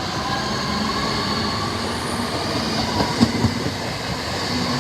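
Train running along the track, a steady rumble of wheels on rail with faint steady tones over it. A few sharp clicks come a little over three seconds in.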